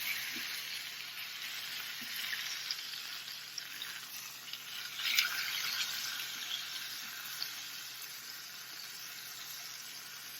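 Onions, bell peppers and garlic sizzling as they sauté in hot olive oil in a pan, a steady crackling hiss, with a brief stirring scrape about five seconds in.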